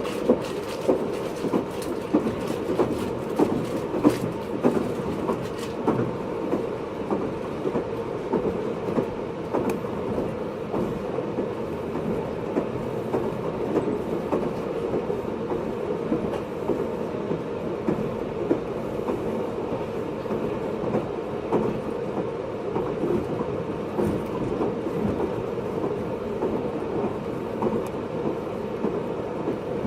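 Running noise of a JR East 583 series train, recorded in its motor car MoHaNe 582-106, at steady speed. A steady rumble of wheels on rail, with many small clicks and knocks from the track, more of them in the first several seconds.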